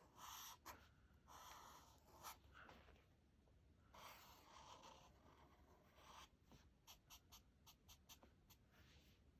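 Faint scratching of a pen drawing on paper: a few longer strokes, then a run of short, quick strokes in the last few seconds.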